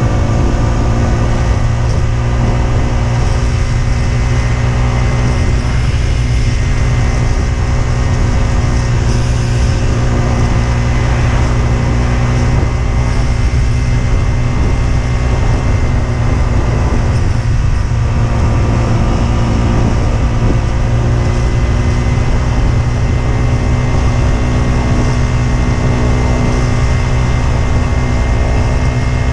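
Husqvarna Svartpilen 125's single-cylinder four-stroke engine running at a steady cruising pitch while riding, rising slightly near the end, over a heavy low rumble.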